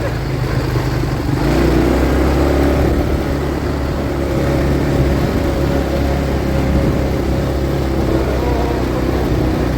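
ATV engine running steadily under throttle, a continuous low drone with a steady pitch.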